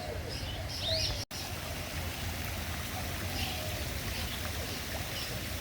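Birds chirping in short high notes over a steady rushing background noise, with a brief total dropout just over a second in.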